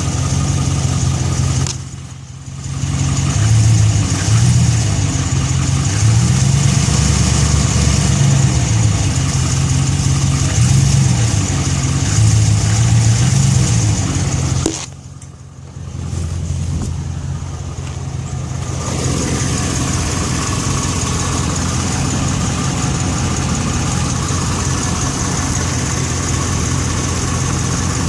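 Chrysler Hemi V8 of a Ram pickup idling after a cold start, carrying the cold-start noise that quiets down once the engine warms. The owner says it doesn't sound like the usual Hemi tick or a broken exhaust manifold bolt. The sound drops away briefly twice, about two seconds in and again near the middle.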